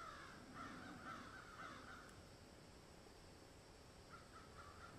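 Faint bird calls in an outdoor ambience recording: a run of calls lasting about two seconds at the start, and another shorter one near the end.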